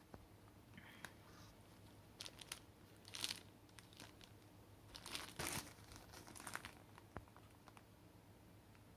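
Packaging being handled: short, scattered bursts of crinkling and rustling, the loudest a few seconds in, over a faint low hum.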